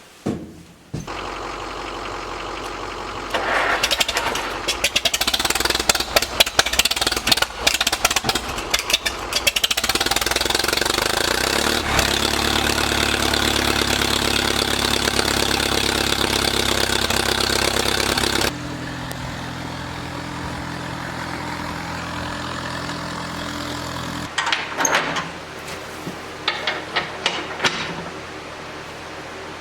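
Farmall tractor engine running, with sharp clanks and rattles over it. It comes in about a second in, is loudest in the middle, and eases to a lower, steadier running about eighteen seconds in.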